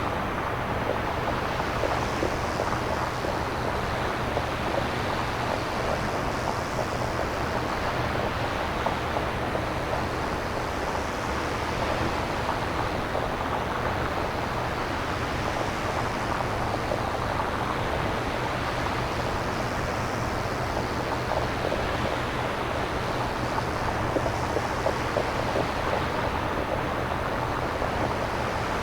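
Synthesized nature ambience with no recorded samples: a steady rushing noise whose upper part swells and fades slowly every six seconds or so, like surf, over a faint low steady hum.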